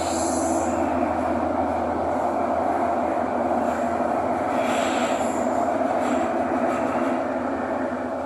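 Thomson-East Coast Line MRT train running between stations, heard from inside the carriage: a steady rumble of wheels on rail, with faint high-pitched wheel squeals near the start and again about five seconds in.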